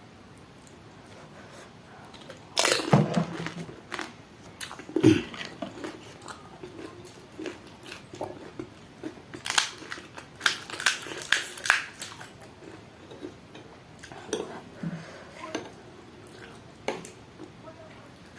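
Pani puri being bitten and chewed: crisp hollow puri shells crunching in the mouth, with loud crunches about three and five seconds in, a run of crunches around ten to twelve seconds, and softer chewing between.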